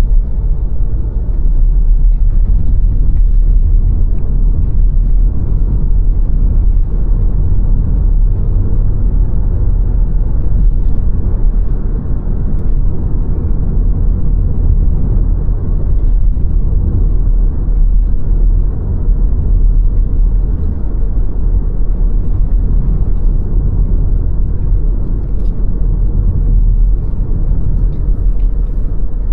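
Car driving at a steady pace: a continuous low rumble of tyres on the road and the engine, with no change through the stretch.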